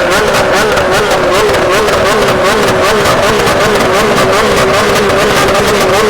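Sports car engine held at high revs, its pitch bobbing up and down about three times a second as it bounces off the rev limiter.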